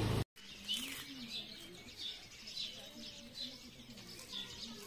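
Birds chirping: short high notes repeating about twice a second, with a few faint low calls beneath them. A low hum at the very start cuts off abruptly just before the chirping.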